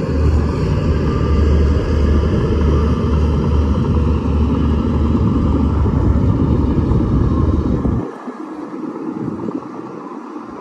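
Shantui DH17-C2 bulldozer's diesel engine running hard under load with a deep rumble, then dropping suddenly to a lower, quieter level about eight seconds in.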